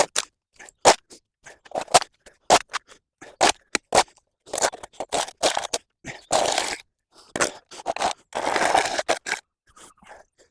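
Repeated short scraping and crunching strokes from manual clearing of overgrown vegetation and debris, irregular, with brief pauses between strokes and a few longer scrapes. No strimmer motor is running.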